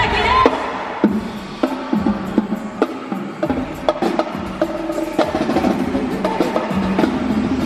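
Live drumming: sharp drum and wood-block hits at uneven spacing over a steady low tone from backing music.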